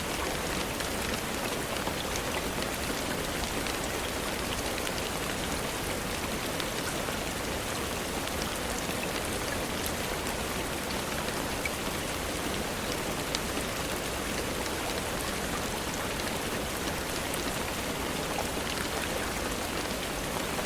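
Steady rainfall: an even hiss with scattered small ticks of drops.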